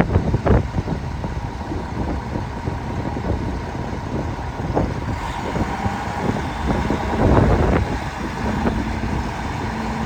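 2001 Mack dump truck's diesel engine idling, with wind gusting on the microphone.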